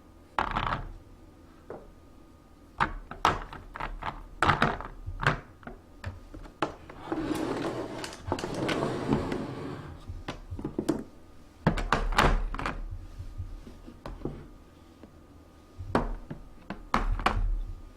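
Irregular knocks and thunks of containers and food items being set down and moved about while a refrigerator is organised. From about seven to ten seconds in there is a few-second stretch of rustling.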